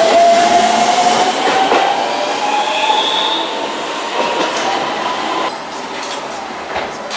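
Keihan Uji Line electric train pulling away, its motor whine rising slowly in pitch as it gathers speed, the whole sound growing fainter as it moves off. The whine stops about five and a half seconds in, leaving quieter running noise with a few light knocks.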